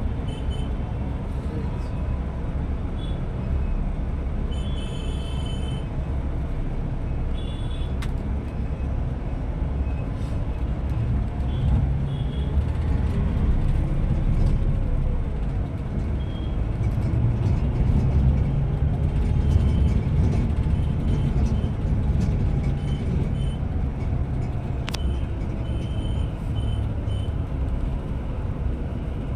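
Scania Metrolink multi-axle coach on the move: a steady low engine and road rumble, with the engine pitch rising and falling gently through the middle.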